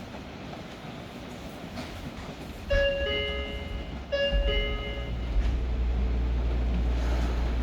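Train door chime, a two-note electronic tone played twice. After it a steady low rumble from the train rises and holds.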